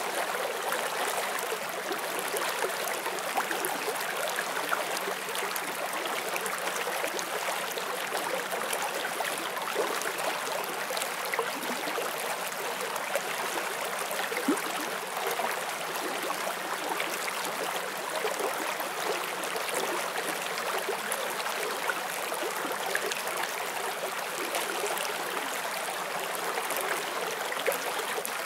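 Forest stream flowing over rocks: a steady rush of water with small splashes and gurgles scattered through it.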